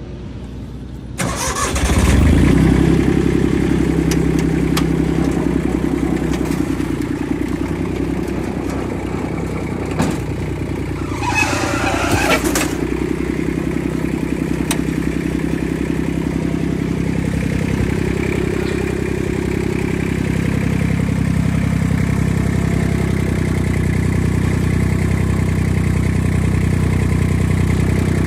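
The three-cylinder diesel engine of a Yanase IZ-Y11-17HD snowblower starting up about a second in, then running steadily. A brief hiss comes in around the middle.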